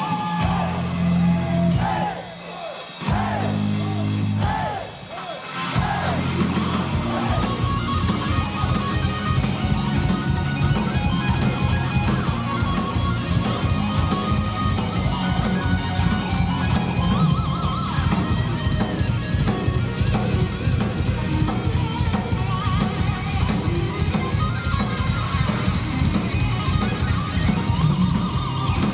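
Live heavy metal band playing an instrumental passage: electric guitar bending notes over bass and drums, with a fast, even drum beat coming in about six seconds in and running on under the guitars.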